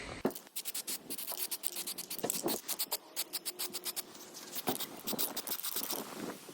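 Scratching strokes on welded steel, several a second in an irregular rhythm: the rack's welds being scrubbed clean of welding spatter and slag.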